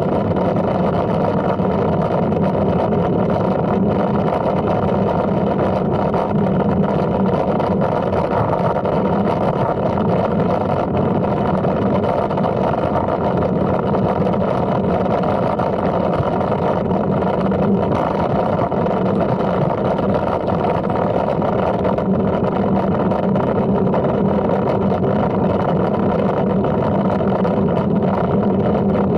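Steady wind and rolling road noise on the microphone while riding a Brompton folding bike, unbroken throughout.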